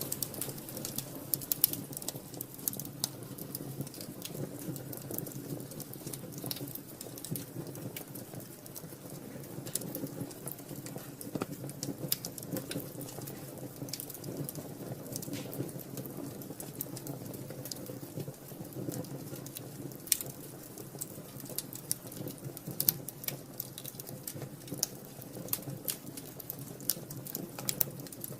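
Wood fire crackling in a fireplace: irregular sharp pops and snaps over a low, steady rustle of the flames.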